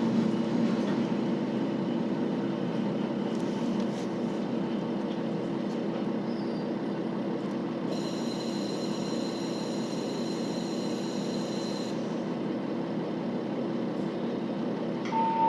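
Interior running sound of a KiHa 40 series diesel railcar: a steady drone of the diesel engine and wheels on the rails. Midway a high-pitched squeal holds for about four seconds, and a short tone starts near the end.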